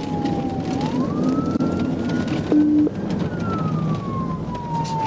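Police car siren in wail mode, one slow tone rising and falling in pitch, over steady road and engine noise. A short low beep sounds about two and a half seconds in.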